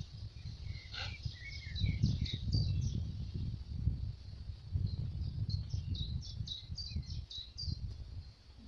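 Small songbirds chirping and trilling, with a run of quick repeated high notes in the second half, over an uneven low rumble.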